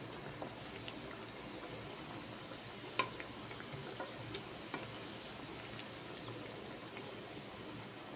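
Potato cutlets frying in a little hot oil in a pan: a steady sizzle and bubbling, with a few sharp clicks, the loudest about three seconds in.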